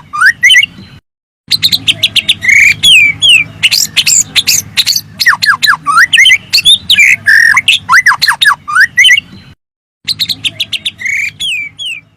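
Murai (white-rumped shama) song played as a lure: a loud, rapid mix of sweeping whistles, falling notes and harsh squawks. The same phrases come round again, broken twice by a brief cut to silence, over a low steady hum.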